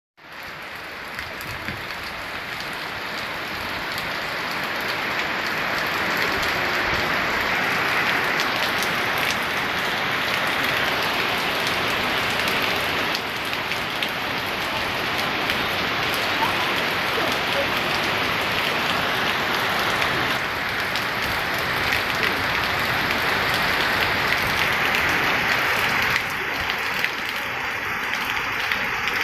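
Heavy rain pouring down in a dense, steady hiss, fading in over the first few seconds.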